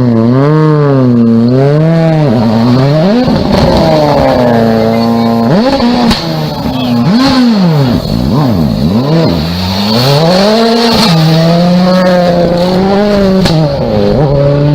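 Rally car engine driven hard, its pitch rising and falling again and again as it revs up, lifts and shifts gears, then holding a steadier high note near the end.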